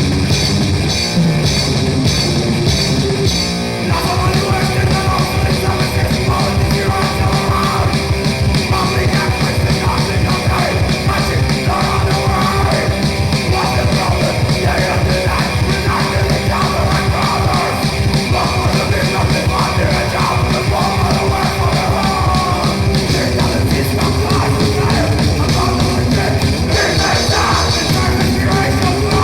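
Raw, noisy grindcore recording played loud: heavily distorted guitar and bass over fast drums, with harsh vocals. The sound thins briefly about four seconds in, then the full band continues.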